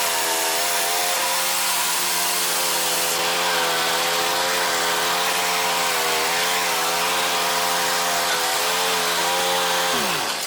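Small petrol engine running at steady high revs, then switched off about ten seconds in, its pitch falling as it winds down.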